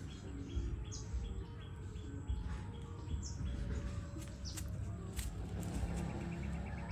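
Birds chirping, with a few short high upward chirps and runs of quick repeated notes over a low background rumble.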